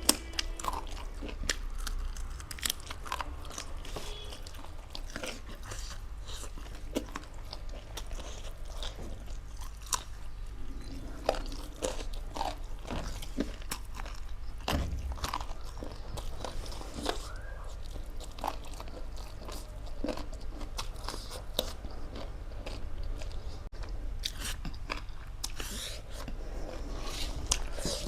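A person chewing and biting food up close, with frequent irregular sharp crunches throughout.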